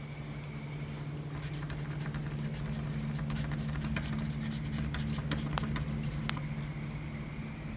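Wood fire crackling with irregular sharp pops and snaps, thickest in the middle, over a steady low hum.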